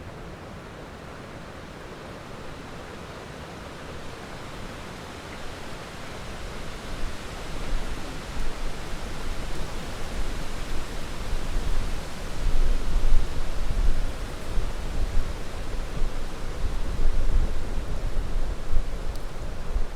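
Steady heavy rain with a low, rolling rumble of thunder that builds from about seven seconds in and stays strong through the rest.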